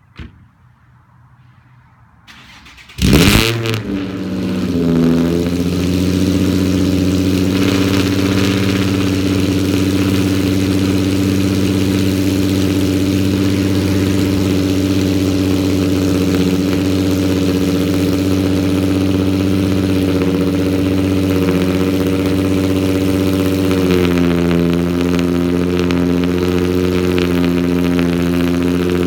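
Nissan 350Z's VQ35HR 3.5-litre V6, straight-piped through long-tube headers, a Y-pipe and a 3-inch single exit, cold-starting: it catches about three seconds in with a loud flare, then settles into a steady high cold idle. The idle steps down slightly near the end.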